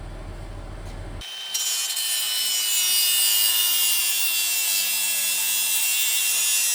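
Power tool cutting through stainless steel, most likely an angle grinder: a loud hiss of the cut with a high motor whine that sags slightly under load, starting suddenly about a second in.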